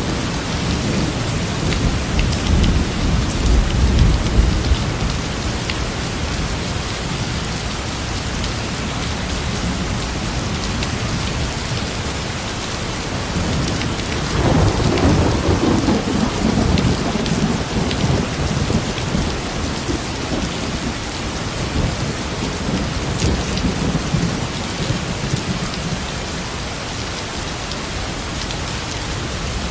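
Steady rain falling, with thunder: a low rumble in the first few seconds, then a louder clap about halfway through that rolls away over several seconds.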